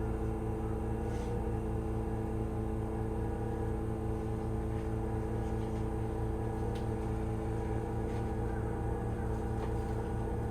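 Steady hum of a stopped Keihan 3000 series electric train's onboard equipment: a low rumble with several fixed tones held level throughout, and a few faint clicks.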